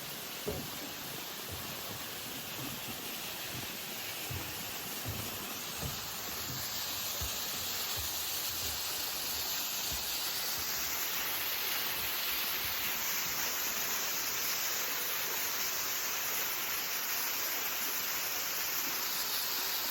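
Steady rushing noise with no clear pitch, growing a little louder about seven seconds in, with scattered low thumps during the first half.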